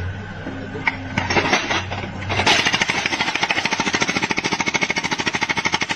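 A power tool starts with a steady hum, then from about two and a half seconds in hammers rapidly and evenly, at roughly a dozen blows a second.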